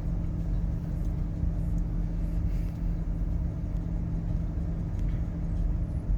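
A vehicle's engine running with a steady low rumble and a constant hum.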